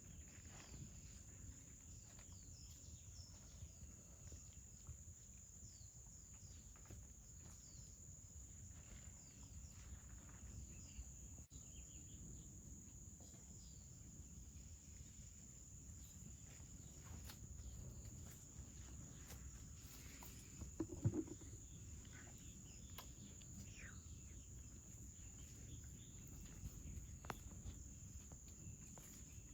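Faint ambience: a steady high-pitched drone with scattered soft ticks and rustles, and one brief louder sound about two-thirds of the way through.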